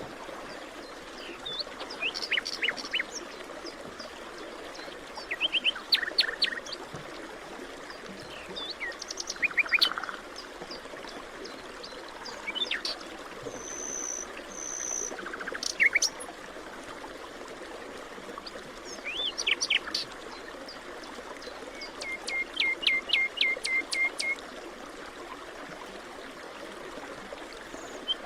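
Several birds calling in a forest over a steady rushing background like a stream: short chirps and trills come every few seconds, with a rapid run of about a dozen even notes a little past two-thirds of the way through and two brief high whistles near the middle.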